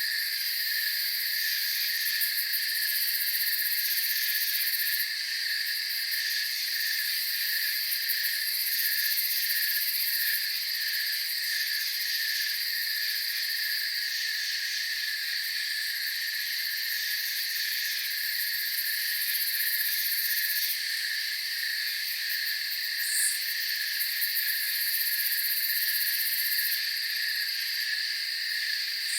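Night chorus of crickets and other insects trilling steadily in several high-pitched layers, one of them pulsing evenly at about two beats a second. A brief higher chirp stands out about 23 seconds in.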